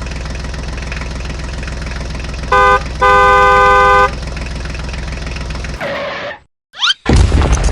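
A vehicle engine runs with a steady low hum while its horn sounds twice, a short honk and then a longer one of about a second. The engine cuts out, and after a brief gap comes a quick rising whistle and a loud thump near the end.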